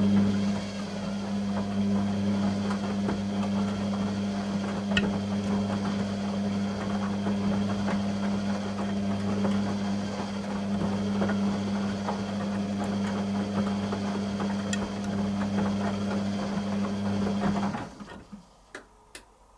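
Beko WTG620M1 washing machine running with a steady low hum and scattered light ticks. The hum cuts off suddenly near the end, followed by a few faint clicks.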